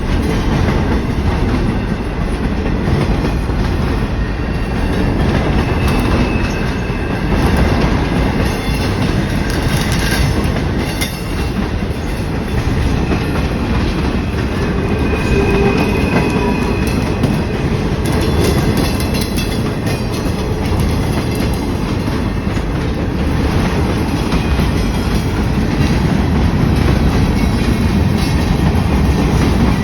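Freight train cars rolling past, wheels clacking steadily over the rail joints, with brief high-pitched wheel squeals a few times.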